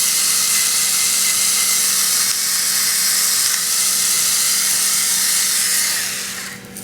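Electric pepper grinder running steadily, a whirring motor over a high grinding hiss as pepper is ground, fading out near the end.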